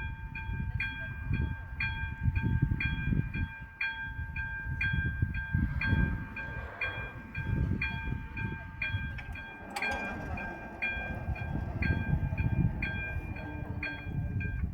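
Railway level-crossing warning bell ringing steadily at about two strikes a second, over an uneven low rumble, with a single sharp knock about ten seconds in.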